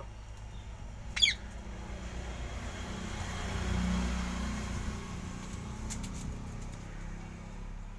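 Green parrot giving a single short, shrill squawk about a second in. A low rumble swells and fades in the middle, like a passing vehicle.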